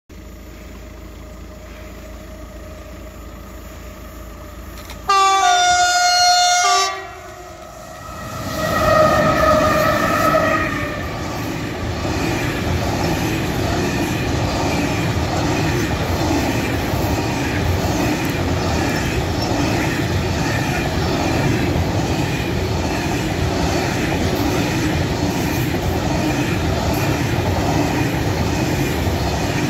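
Train horn sounding for about two seconds about five seconds in, then two SNCB class 13 electric locomotives in multiple passing loudly with a hum. After them comes the steady rolling rumble and clatter of a long freight train of covered wagons going by.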